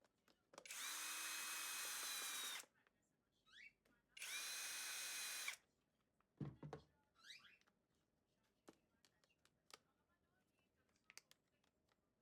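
A small electric motor runs in two bursts of about two seconds each, each spinning up and winding down with a steady whine over a rushing hiss. A dull knock and light handling clicks follow.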